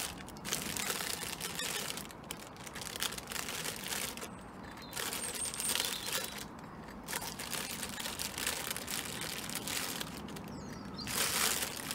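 Crinkling and rustling of bird-food packets and seed being handled while refilling bird-feeder bowls, with wind buffeting the microphone.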